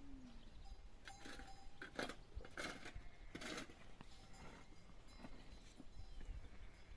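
Faint livestock calls mixed with a few short rustling or shuffling sounds.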